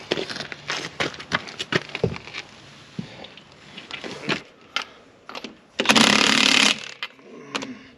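Metal clanks and knocks of a tractor wheel being handled onto its hub, then about six seconds in a loud one-second burst of an impact wrench hammering a lug nut on.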